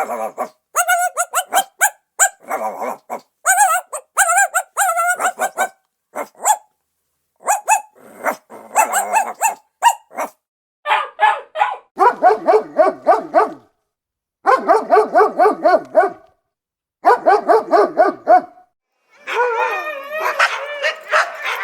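A dog yelping and crying in quick, high-pitched runs, with short pauses between runs and a denser run near the end. These are the sharp yelps of a dog in pain.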